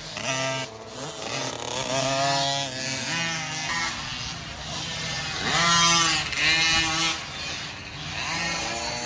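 Small 50cc two-stroke dirt bike engines revving, their pitch rising and falling over and over as the riders work the throttle, loudest about six seconds in.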